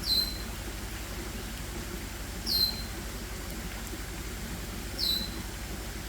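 A bird calling three times, about two and a half seconds apart: each call is a short high note that slides down and holds briefly. A steady low hum runs underneath.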